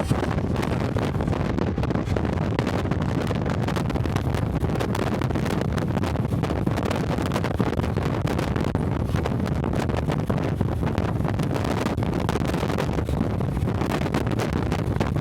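Wind buffeting the microphone over the steady running noise of a moving train, with many small clicks and rattles throughout.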